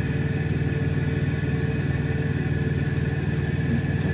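A vehicle engine idling steadily: an even low hum with a fine, regular pulse and a faint steady whine above it.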